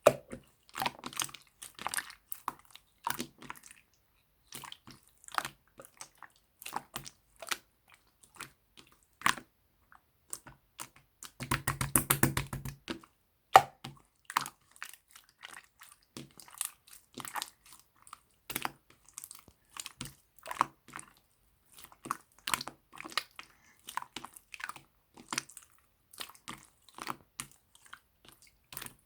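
Clear slime being squeezed and pressed by hand, making irregular sticky clicks and pops, with a longer run of rapid clicks about halfway through.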